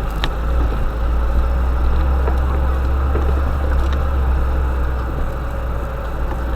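Steady low drone of a UAZ 'Bukhanka' van driving on a rough forest track, heard from inside the cabin, with a few faint rattles.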